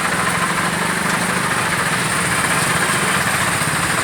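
Steady road traffic noise, with a vehicle engine idling close by as a constant low hum.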